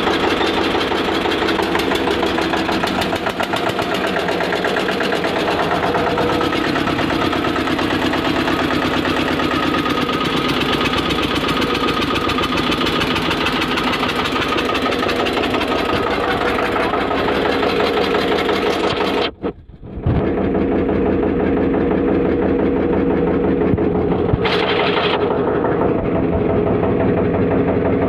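22 HP Eicher single-cylinder diesel stationary engine running steadily with a rapid, even thudding beat. The sound breaks off for a moment about two-thirds of the way through and then carries on duller.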